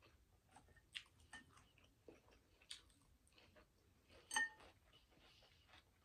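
Faint close-miked chewing with small mouth clicks. About four seconds in there is one ringing clink, a fork against a glass bowl.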